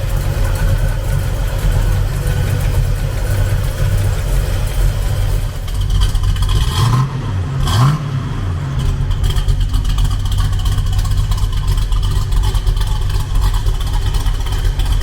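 1966 Chevrolet Chevelle's engine running through its exhaust at a steady speed, with one brief rise and fall in engine speed about halfway through.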